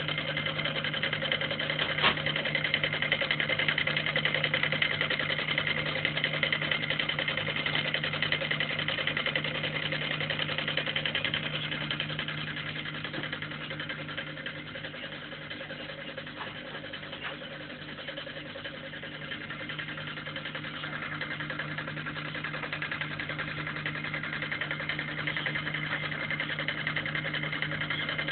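Homemade solenoid (electromagnet) engine running steadily with a rapid mechanical clatter and heavy knocking. There is one sharper click about two seconds in, and the running is a little quieter for a stretch midway before picking up again.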